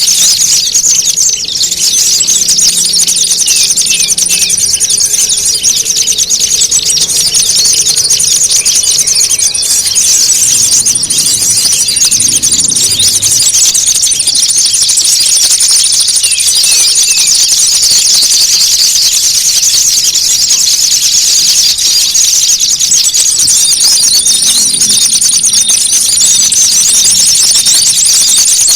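Dense, continuous high-pitched chattering and twittering of small birds, a lure recording of agitated, scolding small birds, with a thin steady high tone above it that comes and goes in long stretches.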